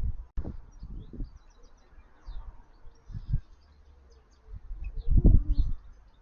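Small garden birds chirping, many short high calls scattered throughout, over low irregular rumbling that is loudest about five seconds in.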